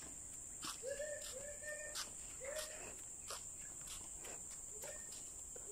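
Crickets chirring steadily in a high, unbroken buzz. A few short, low, arching animal calls sound about a second in and again around two and a half seconds, over faint regular footsteps.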